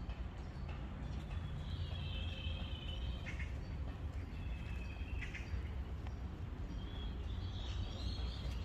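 Birds calling in a park, three drawn-out high calls, each ending in a short drop, over a steady low rumble of outdoor ambience.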